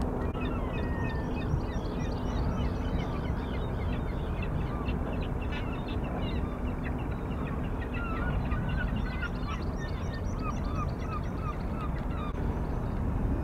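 Many birds calling at once, a busy run of short high chirps and calls with a few quick curling note series, over a steady low rumble with a faint low hum in the first few seconds.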